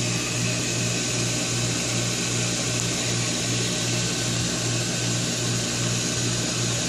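Pool circulation pump's electric motor running with a steady hum, water moving through the solar heater plumbing.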